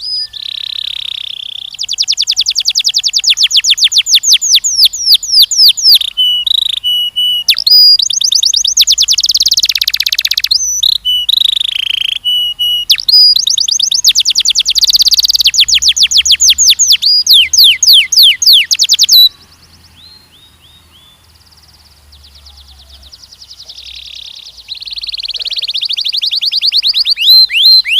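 Canary singing loudly in long, rapid trills of fast repeated high notes. The song breaks off suddenly about two-thirds in, goes on softly for a few seconds, then swells back to full volume near the end.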